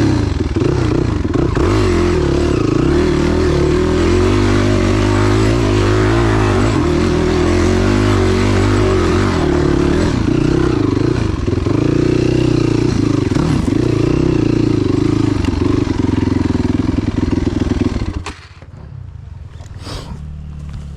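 Enduro dirt bike engine running hard under load on a hill climb, revs wavering up and down, until about 18 seconds in it drops suddenly to a much quieter, lower running.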